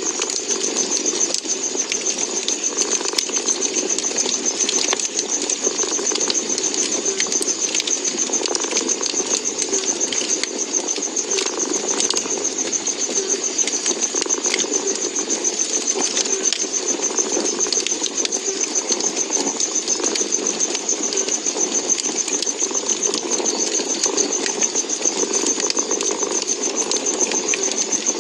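A cat purring steadily with a fast, even pulse, over the scattered sharp crackles and pops of a wood fire.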